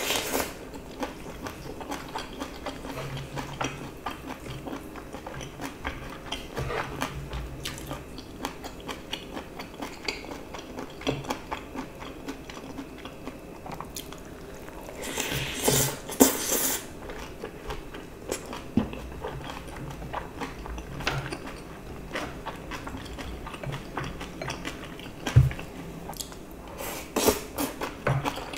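Close-miked chewing of fried rice, with wet mouth sounds and many small clicks. A spoon scrapes and knocks against a metal pan, louder about halfway through and again near the end.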